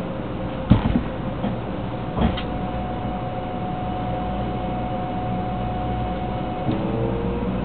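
Inside a Shinkansen 300 series car pulling away from a platform: a clunk about a second in and a smaller one around two seconds. A steady whine from the train's inverter-driven traction motors follows and begins rising in pitch near the end as the train accelerates.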